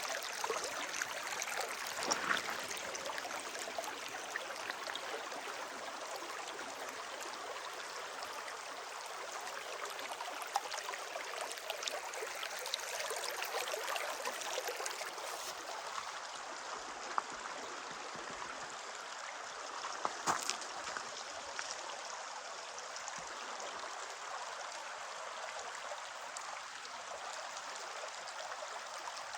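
A shallow stream or river flowing steadily over rocks, an even rushing with a little gurgle. A couple of brief knocks stand out, one about two seconds in and one about twenty seconds in.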